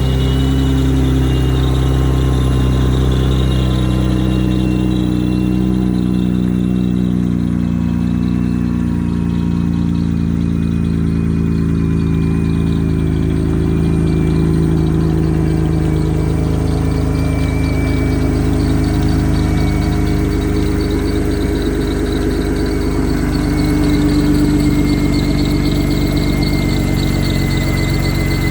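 Dodge Caravan engine running steadily at idle during a run test, with a thin high whine above it; it grows a little louder briefly near the end.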